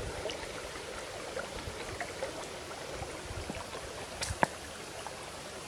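Creek water running over a road crossing, a steady rushing hiss, with two short sharp clicks a little over four seconds in.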